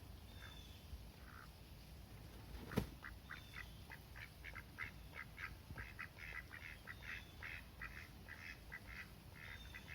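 Rouen drakes quacking softly in a quick run of short calls, about three a second, starting about three seconds in. A single sharp click comes just before the calls begin.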